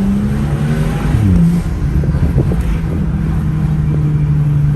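Car engine running with a steady hum, its pitch dropping and shifting a little over a second in, over low road rumble.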